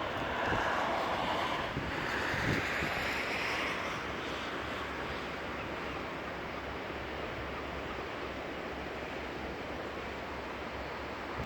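Bombardier Flexity 2 tram running along the line: a steady rushing noise of the moving car, a little louder in the first few seconds.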